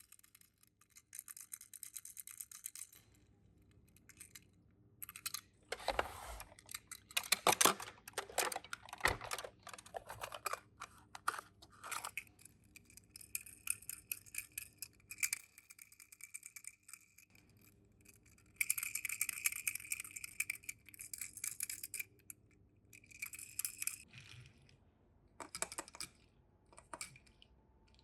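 Hands handling Tomica die-cast minicars and their packaging: irregular clicks and clatters with stretches of rustling, broken by short quiet gaps.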